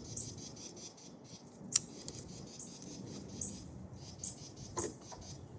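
A single sharp click a little under two seconds in and a couple of light knocks near the end, from handling tools and the battery cable. Behind them a faint high chirp repeats a little more than once a second.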